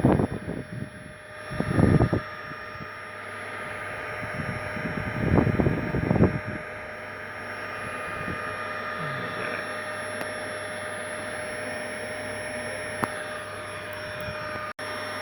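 Bee vacuum running steadily with a constant hum and whine. Three louder bursts of handling noise come in the first six seconds.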